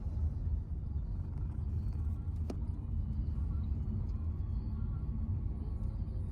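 Steady low rumble of a vehicle in motion, with a single sharp click about two and a half seconds in.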